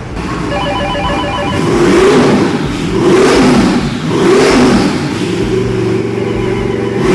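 Twin-turbocharged 427 cubic inch small-block V8 being revved on the dyno, its pitch rising and falling repeatedly as the throttle is blipped. About half a second in, a rapid pulsing beep sounds for about a second.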